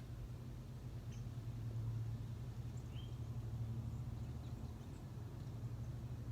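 A few faint, short bird chirps, scattered over a steady low hum that is the loudest sound throughout.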